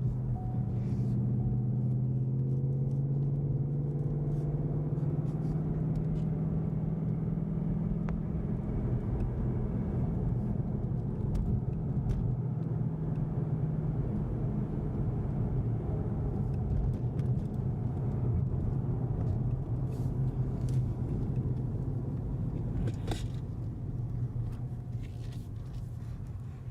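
2015 Mustang GT's 5.0 V8 with an MBRP 3-inch cat-back exhaust cruising, heard from inside the car as a steady low drone that eases off near the end. At cruise it sounds not much louder than the stock exhaust.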